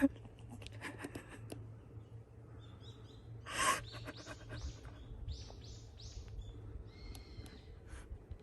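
A bird calling: a quick run of four high, arched notes about four to six and a half seconds in, with a few more high calls near the end. A louder rasping sound comes just before the run, and light clicks and rustles come near the start.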